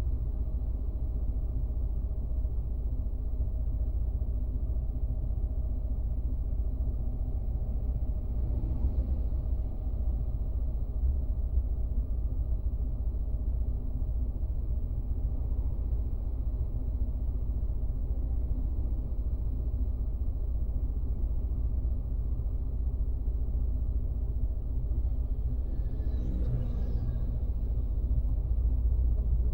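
Steady low rumble of a car driving, heard from inside the car, with faint brief higher sounds about nine seconds in and again near the end.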